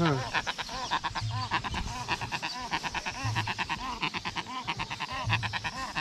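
Large black-and-white bird calling steadily, a rapid run of short pulsing, bleat-like notes with a brief low hum every couple of seconds; to the man beside it, the bird sounds sick.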